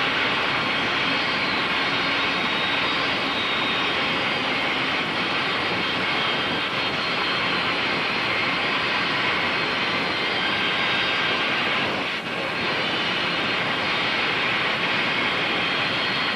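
Bandsaw running steadily: an even rushing whine, with a brief dip about twelve seconds in.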